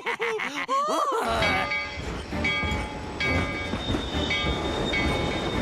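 A cartoon train running with a low rumble while its whistle blows in several tones at once. It starts about a second in, right after a short warbling, bouncing cartoon sound that ends in a rising swoop.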